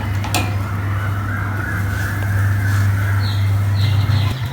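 Steady low hum of an electric motor on carpet-cleaning machinery, its pitch stepping up slightly near the end, with a few short high calls over it in the last second or so.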